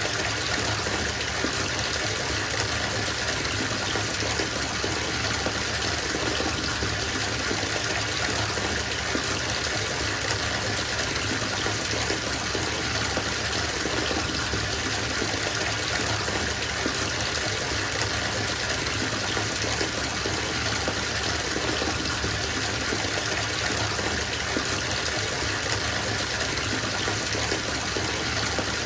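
Bathtub filling from the tap: a steady gush of running water splashing into the tub, even and unbroken.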